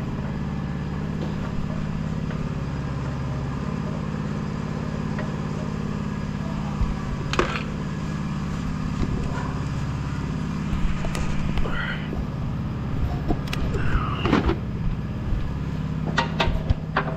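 A motor hums steadily in the background, with several sharp metallic clanks and knocks over it, about halfway through and again near the end.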